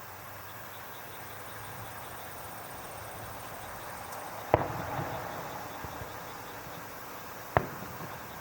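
Two fireworks shells bursting, about three seconds apart, each a single sharp bang; the first trails off in a short rumble.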